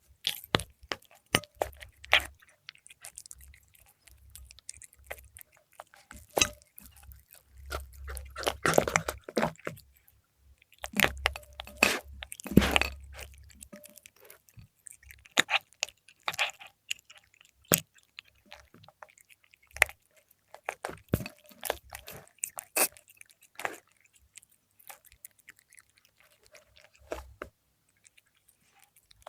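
A cat chewing and crunching fried milkfish, close up: irregular crisp bites and crackles, with two denser spells of chewing in the middle and sparser clicks toward the end.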